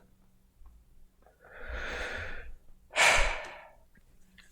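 A person breathing close to the microphone: a slow breath lasting about a second, then a louder, shorter sigh about three seconds in.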